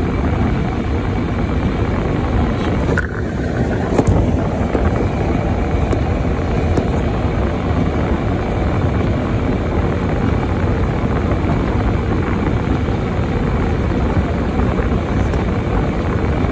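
Steady low rumble of a car driving on snow-covered roads, heard from inside the cabin, with a light knock about four seconds in.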